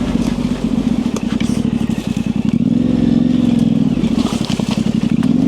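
Yamaha Ténéré 700's parallel-twin engine idling steadily through an aftermarket high exhaust, with a few light clicks.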